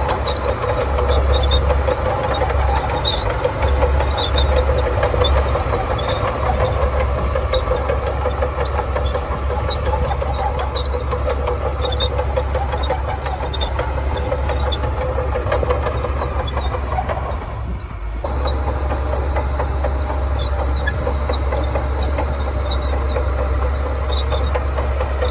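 Bulldozer's heavy diesel engine running steadily under working load, with small scattered clicks. The engine sound dips briefly about three quarters of the way through, then carries on.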